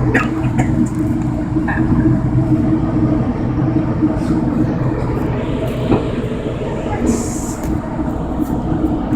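Amtrak passenger train running, heard from inside the passenger car: a steady low rumble and hum, with scattered clicks and a short hiss about seven seconds in.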